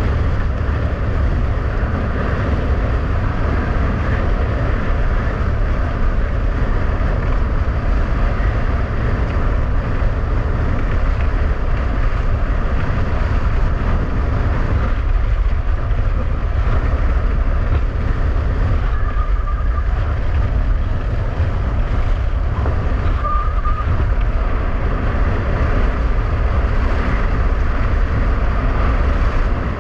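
Strong wind rushing and buffeting over the microphone during a fast ski-winging run in a blizzard, a loud steady rumble with a hiss above it.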